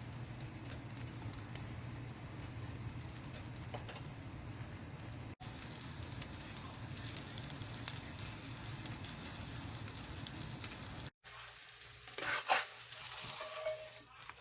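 Outdoor ambience picked up by a bird-feeder camera's microphone: a steady crackly hiss with a low hum and scattered faint clicks. It breaks off abruptly twice, about five seconds and eleven seconds in, and the sound changes after the second break.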